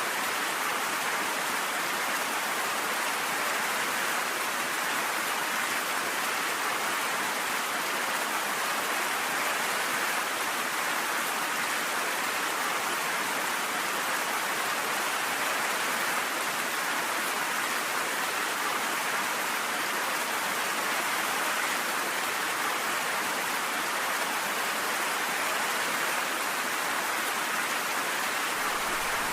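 Steady, heavy rain falling in an even, unbroken hiss. In the last second a low rumble of thunder begins to come in.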